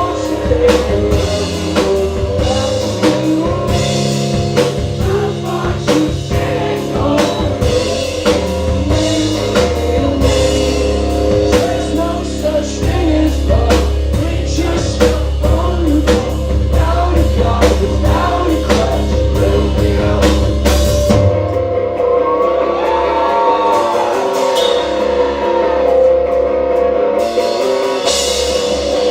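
Live rock band playing: drum kit, bass, electric guitars and singing. About three-quarters of the way through, the drums and bass drop out, leaving sustained guitar tones.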